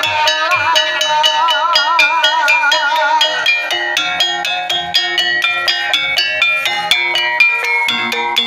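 Banyumasan gamelan music: tuned struck percussion plays a steady, even beat of ringing notes. A sinden sings a long, wavering vibrato line over it for about the first three seconds.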